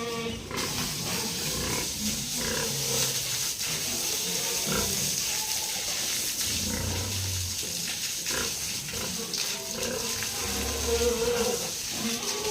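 Pigs grunting and calling, with a steady hissing background.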